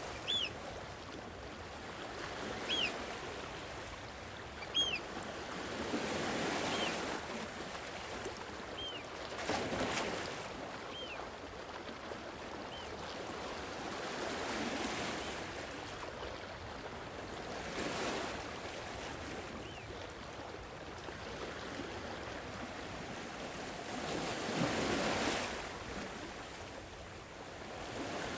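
Gentle sea waves washing in and drawing back, the surf swelling and easing every few seconds. Over them, a short high chirping call repeats about every two seconds through the first half, then fades away.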